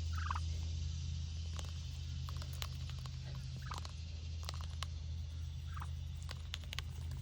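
Muscovy duck giving three short, soft, falling calls, with scattered small clicks and taps of its bill nibbling, over a steady low hum.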